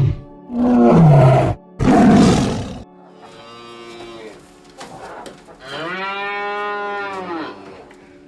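Animal calls: two loud, rough, roaring calls in the first three seconds, then a quieter, long pitched call that rises and falls in pitch near the end.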